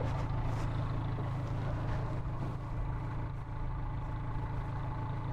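Band sawmill's engine idling steadily, a low even hum, with no blade cutting.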